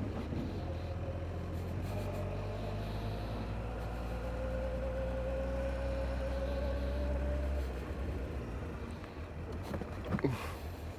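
Honda CBF motorcycle engine running as the bike rides off, with a faint whine that climbs slowly before the engine eases off about eight seconds in.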